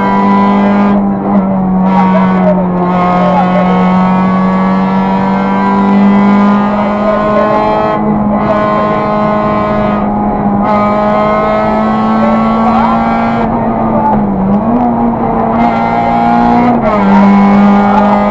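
Peugeot 206 RC rally car's four-cylinder engine, heard from inside the cabin, running hard at high revs under full throttle, with brief dips in revs a few times, over road and tyre noise.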